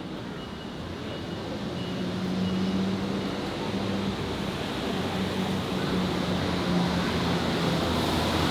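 City street traffic: a vehicle engine's steady low hum amid road noise, growing gradually louder. A faint high beep repeats several times in the first few seconds.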